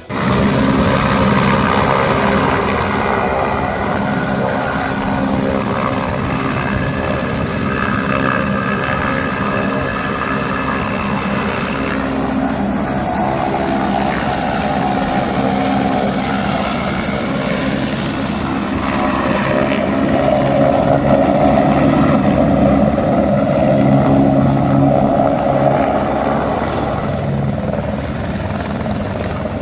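Helicopter running steadily, its engine whine and rotor noise continuous, a little louder in the second half.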